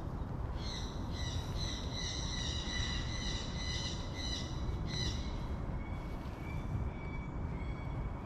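A bird calling with high, drawn-out squealing notes for several seconds, fainter near the end, over a steady low rumble.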